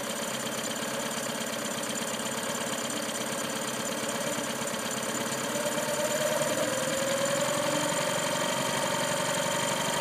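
Engine running in throttle-only mode, idling and then rising a little in speed about halfway through, holding there. It can be throttled up only to a low speed before it starts to falter and cut out.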